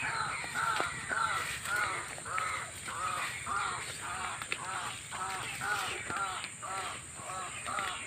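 Harsh, cawing bird calls repeated steadily, about two to three short calls a second.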